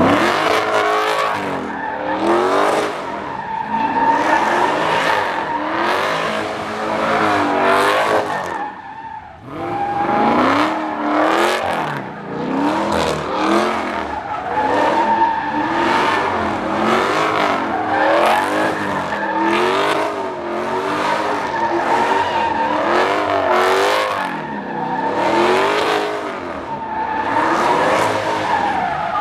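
A car's engine revving up and down over and over while its tyres squeal: a car spinning in a pit.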